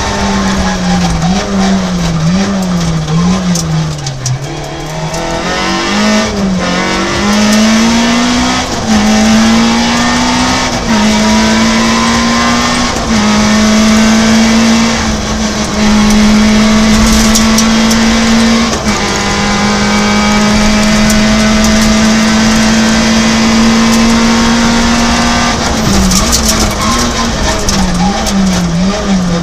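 Peugeot 106 rally car's engine heard from inside the cabin under hard driving: the revs rise and fall for the first few seconds, then climb through the gears with a shift about every two seconds. The engine then holds high and steady for about ten seconds, and near the end the revs waver and drop again.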